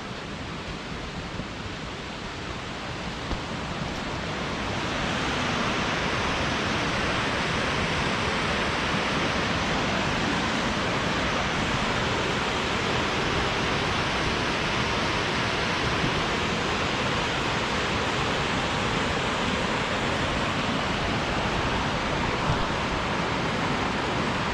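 Steady rushing of a waterfall, growing louder a few seconds in and then holding level.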